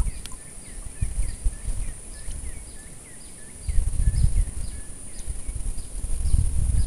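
Wind buffeting the microphone in low rumbling gusts, strongest from about halfway and again near the end, over a bird calling in short repeated chirps about twice a second and a steady high insect drone.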